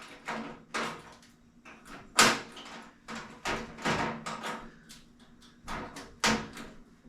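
Clicks and knocks of a diesel heater's housing parts being handled and fitted together, about ten separate sharp knocks spread over several seconds, the loudest about two seconds in.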